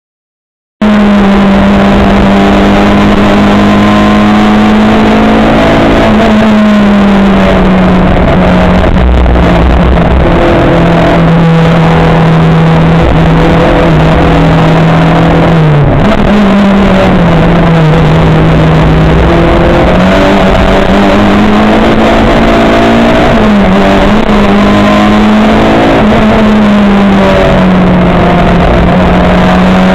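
Race car engine running hard under load, very loud and distorted, its pitch holding high and then dropping and climbing again several times as the car brakes, shifts and accelerates. The sound cuts in abruptly about a second in.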